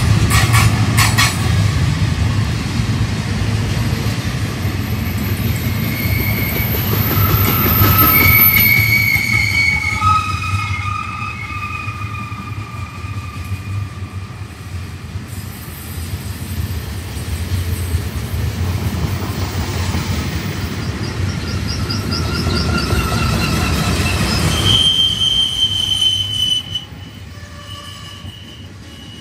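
Double-stack container freight train rolling past, a steady low rumble of wheels and cars with high-pitched wheel squeal from the curving track that comes and goes. The noise drops off near the end.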